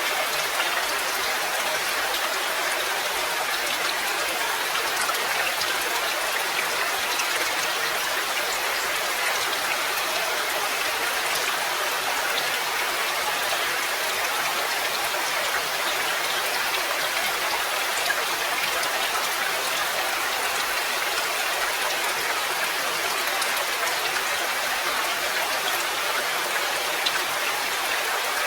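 Steady rain, an even hiss of falling water with individual drops ticking now and then.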